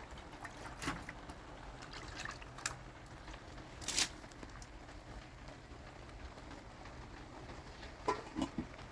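Steady rain noise with scattered sharp clicks and knocks, the strongest about four seconds in and a quick cluster near the end.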